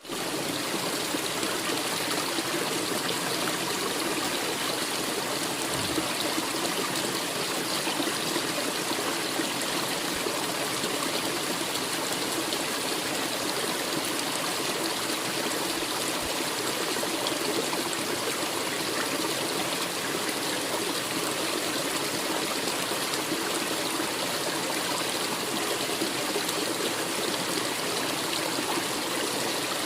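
A forest stream running steadily, water trickling and burbling over rocks.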